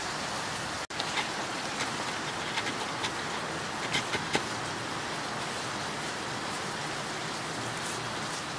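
Steady hiss of heavy rain, with a few light clicks and taps in the first half.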